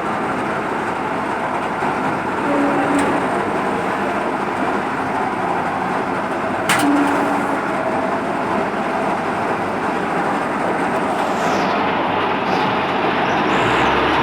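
Kartar 3500 G combine harvester running steadily while working, a dense, even machine noise, with one sharp click about halfway through.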